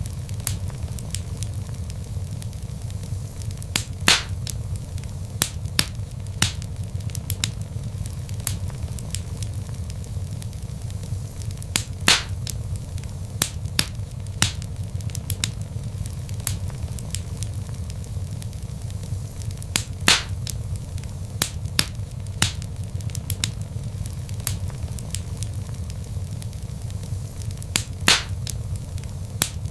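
Log fire crackling in a fireplace: a steady low rumble of flames under a constant scatter of small crackles, with a louder pop about every eight seconds.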